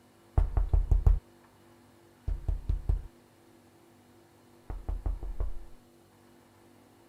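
Rapid knocking in three bursts of about five knocks each, a second or so apart.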